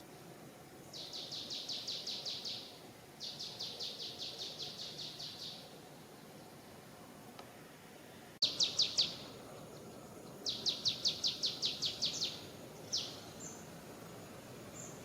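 A bird singing repeated fast, high trills, each a run of quick notes lasting one to two seconds, over a steady outdoor background hiss. The level jumps suddenly about eight seconds in.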